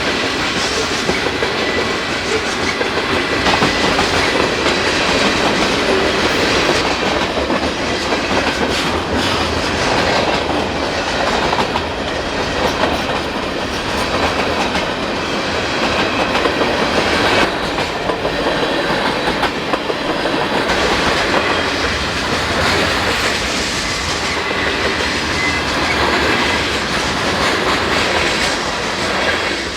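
Canadian National freight train's cars rolling past, their wheels clacking over rail joints in a steady, continuous rumble.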